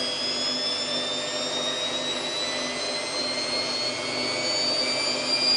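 Samsung WF8804RPA washing machine drum spinning up in its service-mode spin test, the motor whine rising steadily in pitch as it accelerates from about 400 toward 800 rpm.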